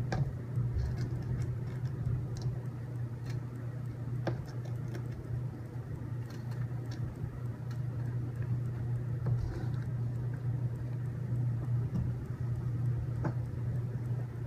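Scattered light clicks and taps of small robot-kit parts being handled during assembly, over a steady low hum.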